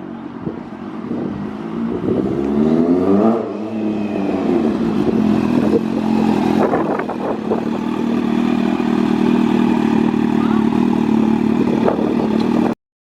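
A vehicle engine revs up and drops back about three seconds in, then runs steadily with some clatter, cutting off suddenly near the end.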